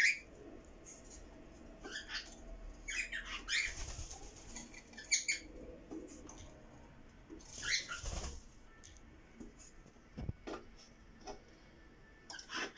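Cockatiels giving short chirping calls in scattered bursts, about five times.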